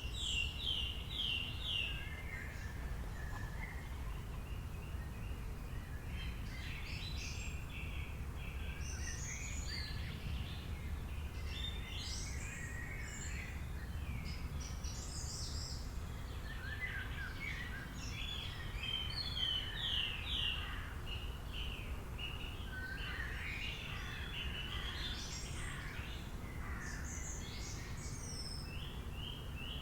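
Several birds chirping and trilling on and off, some in quick repeated notes, over a steady low rumble.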